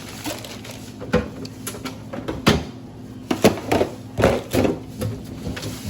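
A string of short knocks and clatters with some rustling as groceries are handled and set down. The sharpest knocks come around the middle.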